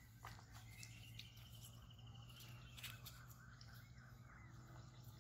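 Near silence with faint bird calls, over a steady low hum and a couple of soft clicks.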